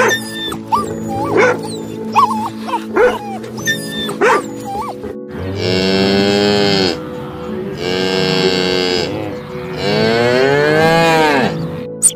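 A cow mooing three times, each moo long and drawn out, the last one rising and then falling in pitch. Before the moos come a few short, sharp yelps from a dog.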